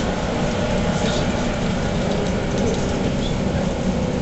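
JR Central 117 series electric train running along the track, heard from inside the passenger car: a steady, even rumble of the train in motion, with light clicks scattered through it.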